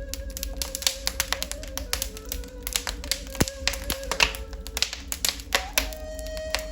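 Wood fire in a fireplace crackling, with many sharp pops and snaps. Under it a ney flute plays long held notes, moving a little higher near the end.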